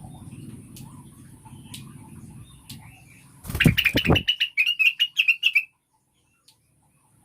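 Female greater green leafbird (cucak wilis) giving a fast run of about a dozen sharp chirps about halfway through, starting with a brief low rustle, over a steady low background rumble.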